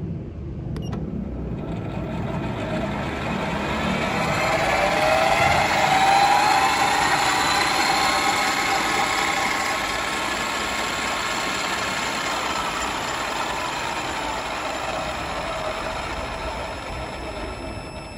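PRO SPEC PSL450-VDR small benchtop lathe running: a motor whine with gear noise that climbs in pitch as it speeds up over the first several seconds, settles slightly and holds steady, then dies down near the end.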